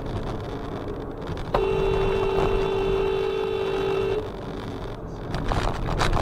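Car horn sounding one steady two-note blast of about two and a half seconds, over continuous road and engine noise. A few sharp knocks follow near the end.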